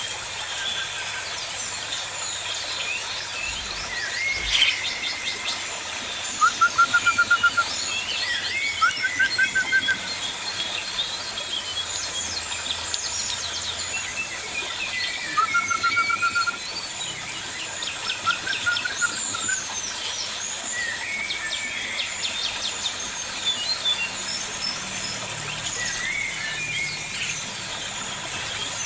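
Several birds calling in an aviary: a mix of chirps, whistles and short fast trills, with a quick run of loud repeated notes about seven seconds in.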